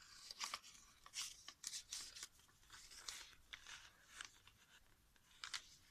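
Faint rustling and light scraping of paper and card as handmade journal pages and small cards are handled, in short scattered rustles with brief pauses.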